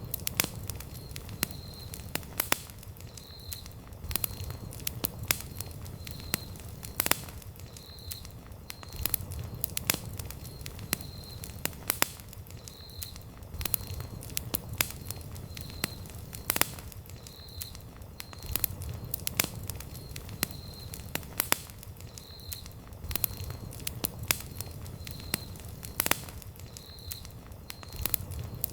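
Wood campfire crackling, with sharp pops at irregular intervals over a steady low rush of burning flames.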